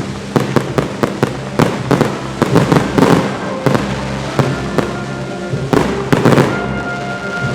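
Fireworks display: a rapid, irregular run of sharp bangs from bursting shells, several a second, with no let-up.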